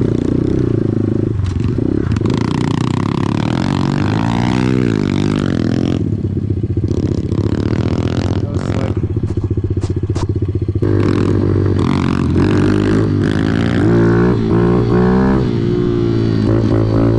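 Dirt-bike engine being ridden, its pitch rising and falling again and again with the throttle. A few sharp knocks or clatters come through about halfway in.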